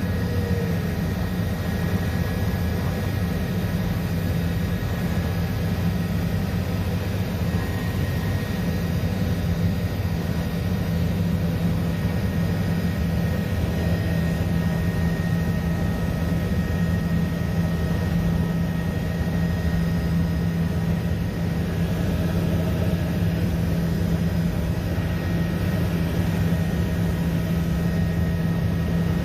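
Helicopter turbine engine and rotor running steadily in cruising flight, heard from inside the cabin as a constant low drone with a steady high whine over it.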